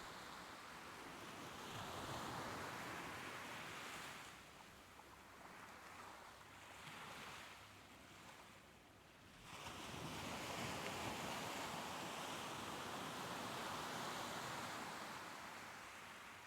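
Soft ocean waves washing in as a hiss of surf that swells and fades. A quieter lull of several seconds comes first, then a longer wash rises just before halfway and ebbs near the end.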